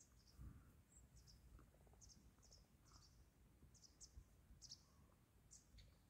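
Near silence: faint, short, high-pitched bird chirps come every half second or so over a low outdoor rumble, with one soft low thump about half a second in.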